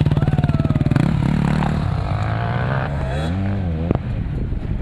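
Off-road motorcycle engines running close by: one pulses loudly at a steady pitch for about a second, then an engine revs up and down several times in quick succession, with a sharp click near the end.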